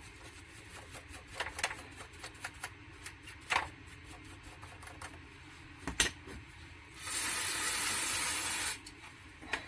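Faint clicks and handling of the tape mechanism, then, about seven seconds in, a steady hiss of aerosol solvent sprayed for just under two seconds onto the back of a cassette deck.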